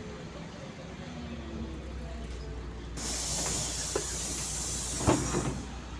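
LiAZ city bus standing at a stop with its engine idling, a low steady hum. About three seconds in, compressed air from the bus's pneumatic system hisses for over two seconds, with a knock near the end.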